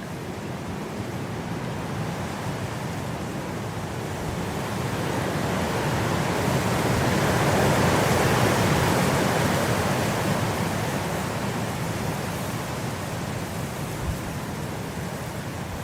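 Blizzard wind blowing in a steady rush, one long gust swelling to its loudest about halfway through and then easing off.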